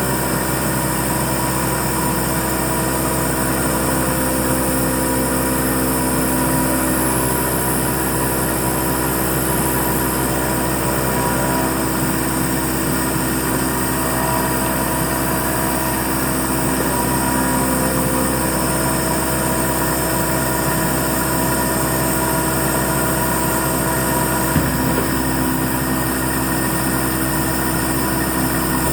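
Hurco MB-1 milling machine running while it mills letters: a steady mechanical hum with several steady tones from the spindle and drives. A single short click comes near the end.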